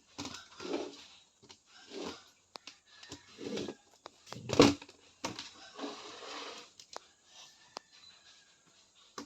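Household handling sounds: scattered clicks, light knocks and short scraping swishes, with one louder knock about halfway through.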